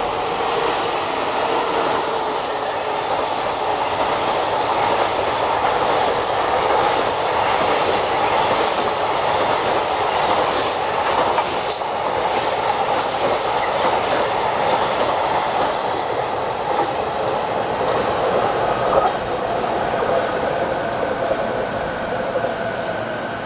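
Container freight train hauled by an EF65 PF electric locomotive running past: the locomotive and then a long line of Koki container flatcars, a steady rolling noise of steel wheels on the rails. It grows quieter about twenty seconds in as the last wagons clear.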